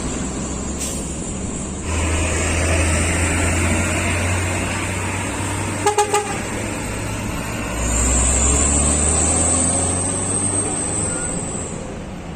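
Heavy truck engine rumbling as it drives past, with a quick burst of three short horn toots about six seconds in. A hiss joins near the end as the truck comes closest.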